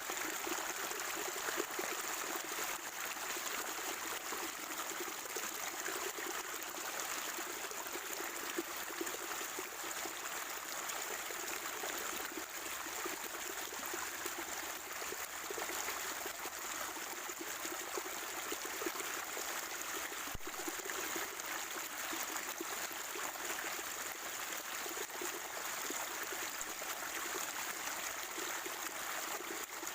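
Water from a natural spring trickling and gurgling steadily.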